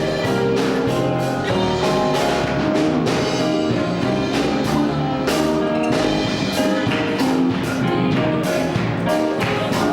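Live band playing an instrumental with keyboard and drum kit, a steady beat under sustained chords.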